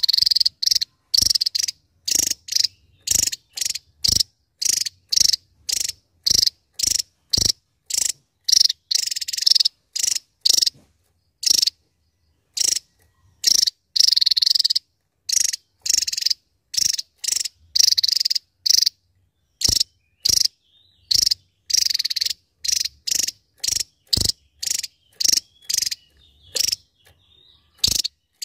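Javan tesia singing in a rapid run of short, sharp high-pitched notes, about two to three a second, with a few longer phrases between them.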